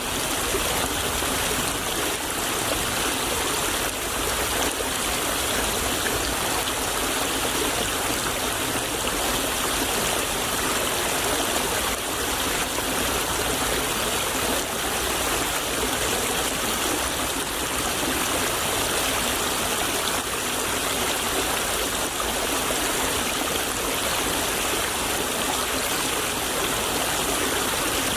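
A small stream flowing and babbling steadily over stones.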